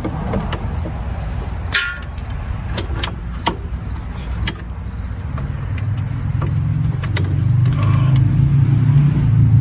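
Scattered clicks and knocks of a socket and ratchet working on the caliper bracket bolts. From about halfway a steady low engine hum comes in and grows louder.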